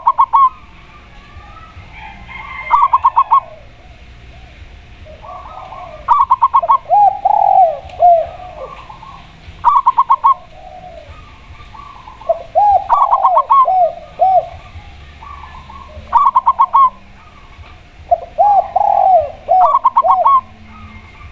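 A zebra dove (perkutut) and a spotted dove (tekukur) cooing against each other. Quick runs of short, clipped, higher notes come about every three seconds, and three times they are answered by a run of lower, longer arching coos.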